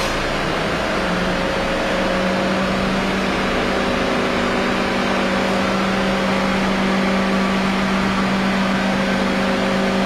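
Car engine idling: a steady hum over a constant rushing noise, the hum settling to a slightly higher, even pitch about a second in.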